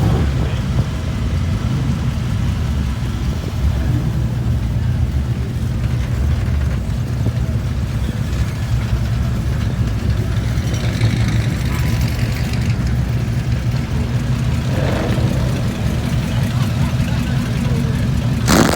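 Car engine running steadily, with a sharp knock near the end.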